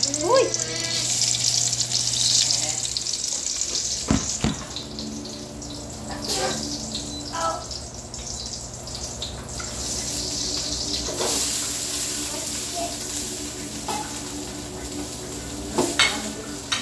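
Food frying and sizzling in a stainless steel pot while it is stirred with a wooden spatula, with a few sharp knocks of the spatula against the pot. A steady low hum runs underneath.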